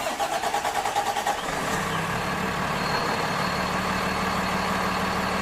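An engine running steadily at idle. A low, even hum settles in about two seconds in.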